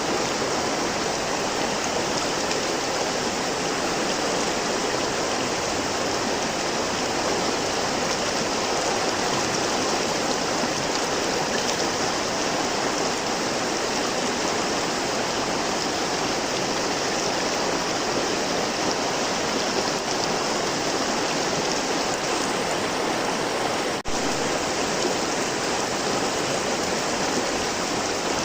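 River water flowing, a steady even sound throughout, with a momentary dip near the end.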